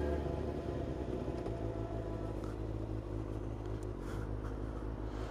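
Motorcycle engine running steadily at low revs while riding, heard from inside the helmet, its note settling after dropping just before. Wind rush is slight, with the helmet's underside sealed by a neoprene skirt.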